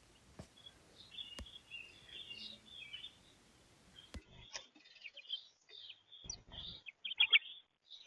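Small birds chirping and twittering in short, high calls. Several sharp clicks are heard, and a couple of louder short rustling sounds come about three-quarters of the way through.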